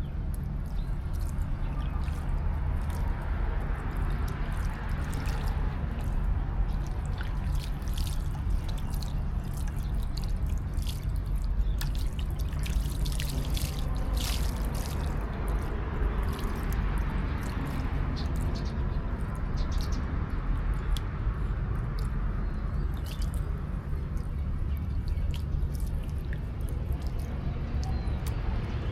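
Macaques splashing in a pool of water: scattered small splashes and drips, thickest about halfway through, over a steady low rumble.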